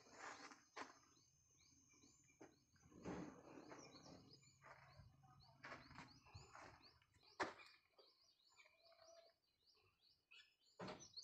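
Faint small-bird chirps repeating over near quiet, with a few scattered scuffs and knocks and one sharp click about seven seconds in.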